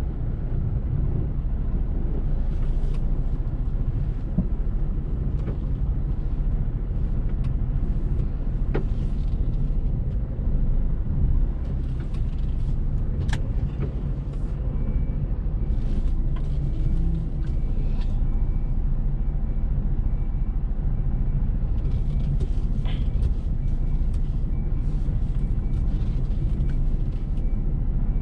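HGV lorry running, a steady low rumble with a few faint clicks.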